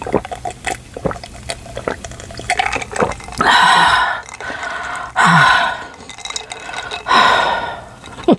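Icy sparkling water being drunk close to the microphone: three loud sips or gulps a second or two apart, with many small clicks before and between them.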